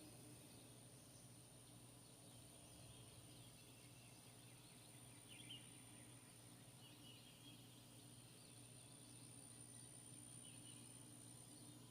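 Faint outdoor ambience: distant birds chirping now and then, the clearest call about five and a half seconds in, over a steady low hum and a thin, steady high-pitched tone.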